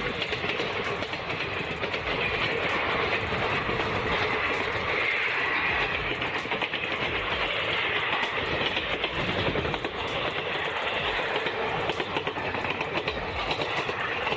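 A train passing on the track: a steady rumble with the continuous clatter of wheels over the rails.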